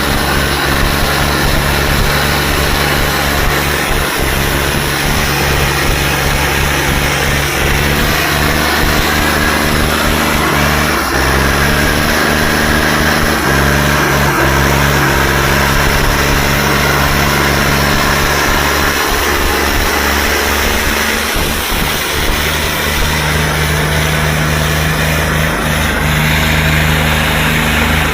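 Tractor engines running hard and steadily under load. Their pitch shifts a few times.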